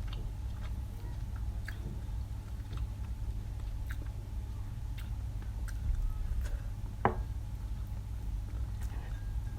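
A person chewing food close to the microphone: scattered soft mouth clicks, with one sharper click about seven seconds in, over a steady low hum.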